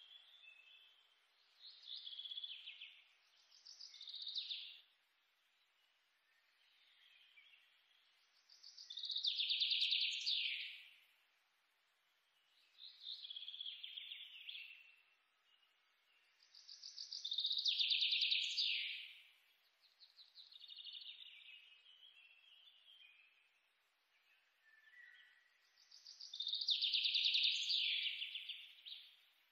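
Songbird singing: high, trilled phrases of about two seconds, a louder one roughly every eight seconds with softer chirping phrases between and short pauses.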